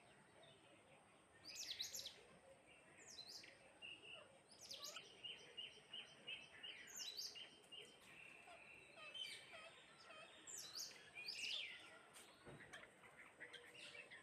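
Sparrows chirping faintly: many short, sharp chirps, with a quick run of repeated notes about five seconds in.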